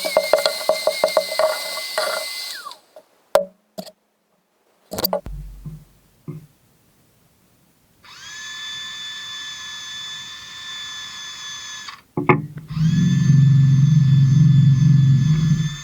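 Small electric power tool running in separate bursts. A high whine with rapid clicking at the start, then scattered knocks and a pause, then the motor whines steadily for about four seconds. After a few sharp clicks it spins up again, rising in pitch, and runs louder with a strong low hum.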